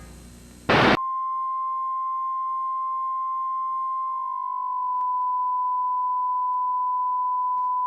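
A brief loud burst of static under a second in, then one steady pure tone held without a break: a TV station's test tone after its nightly sign-off.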